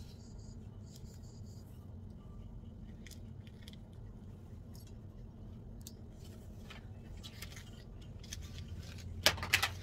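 Quiet room tone: a steady low hum with faint scattered ticks, and a short louder scrape near the end.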